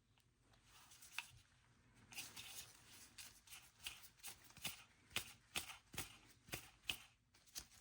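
Faint clicks and rustles of small plastic parts being handled while the fan is fitted onto the Roomba's suction motor. From about two seconds in, a run of sharp clicks comes about two a second.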